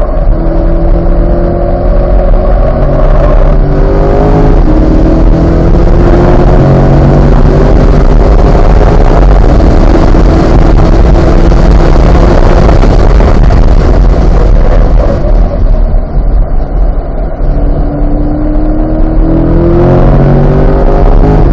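Corvette C8's V8 under hard acceleration on track, pulling up through the gears with stepped upshifts, then running at steady high speed. Near the end it eases off briefly before accelerating and upshifting again. Heavy road and wind noise runs throughout.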